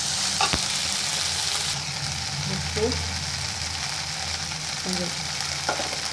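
Chopped okra sizzling in hot oil in a nonstick kadai, stirred with a wooden spatula: a steady frying hiss, with a single sharp knock about half a second in.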